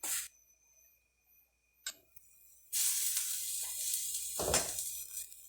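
Two light clicks, then a frying pan of corn batter sizzling: a hiss that starts suddenly and lasts about two seconds, with a knock near the end.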